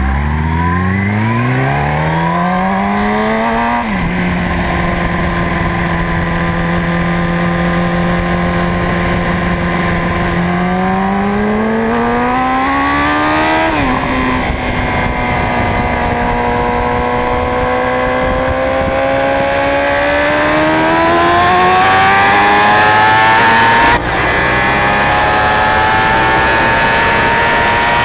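Motorcycle engine through a Two Brothers aftermarket exhaust, accelerating hard. Its pitch climbs and drops sharply at two upshifts, about four seconds in and again about fourteen seconds in. It then runs at a steady speed, rises slowly, and drops briefly again near the end.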